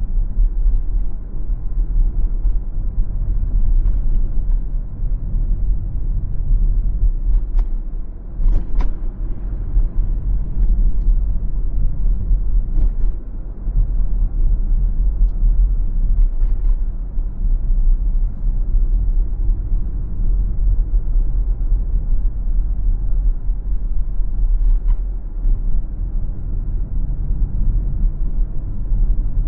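Steady low rumble of a car driving: road and tyre noise, with a few brief knocks from bumps in the road.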